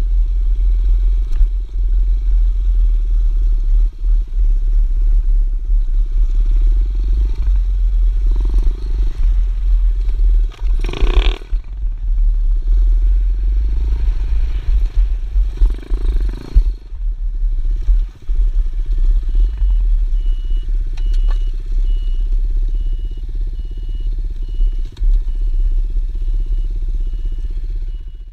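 Pit bike motorcycle engine running during a ride, under a loud, steady low rumble, with a short louder burst about eleven seconds in.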